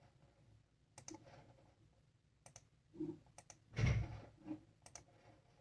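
Scattered faint clicks from computer use, a few single and double clicks, with one louder, duller bump about four seconds in.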